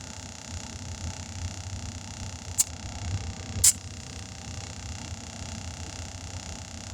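Compressed air rushing steadily into a freshly bead-seated tire through a valve stem with its core removed, over a low hum. Two short, sharp hisses come about two and a half and three and a half seconds in.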